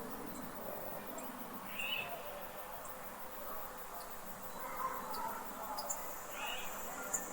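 Forest ambience: a steady soft hiss with a few short bird calls, one about two seconds in, a few quieter ones around five seconds, and another near the end.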